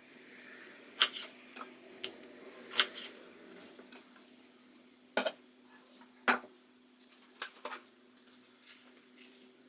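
Kitchen utensils and dishes clinking and knocking in irregular sharp clicks, a few seconds apart with softer taps between, over a steady low hum.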